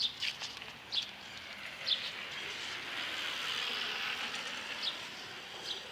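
Insect buzzing that swells and then fades, with a few short high chirps.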